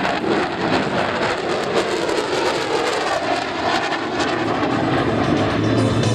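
Jet noise from an F-22 Raptor's twin Pratt & Whitney F119 turbofan engines as the fighter makes a pass: a loud, steady rush spread across all pitches.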